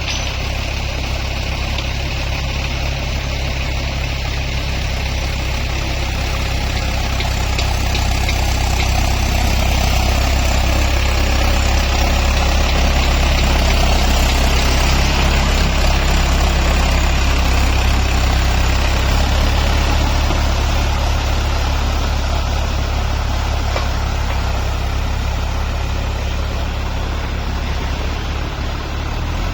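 Diesel tractor engine running steadily while working a flooded rice paddy, a low drone that grows louder through the middle and eases off again toward the end.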